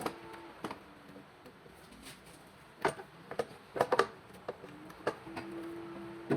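A few sharp, separate clicks and knocks, the loudest about three and four seconds in, like hand tools or metal parts being handled, over a faint steady hum of tones.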